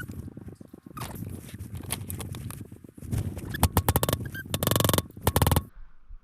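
Rapid metallic clicking and rattling from hand tools working a homemade bearing press, with a dense run of fast clicks about four and a half seconds in that stops abruptly.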